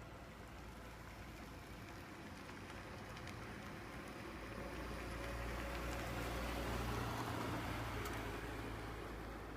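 Distant engine noise with a low hum that swells to a peak about seven seconds in and then fades, like a vehicle passing by.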